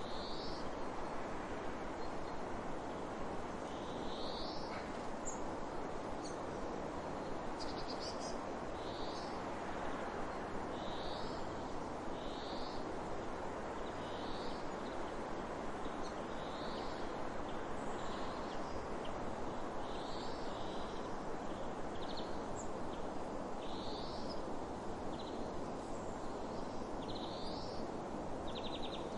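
A bird repeating a short, high, slightly rising call about once every second or two, over a steady rushing noise such as running water.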